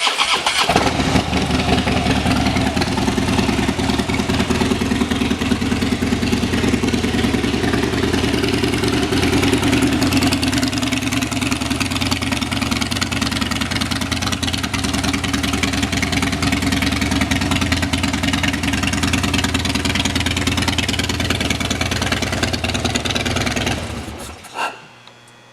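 2016 Harley-Davidson Dyna Fat Bob's Twin Cam 103 V-twin, fitted with aftermarket Danmoto exhaust pipes, firing up and idling steadily. It shuts off about a second before the end.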